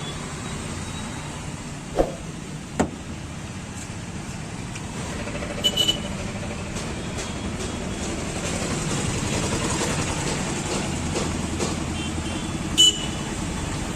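Street traffic noise, with a vehicle passing and swelling about two-thirds of the way through. A few sharp clicks sound over it: twice near the start, a quick pair midway and one near the end.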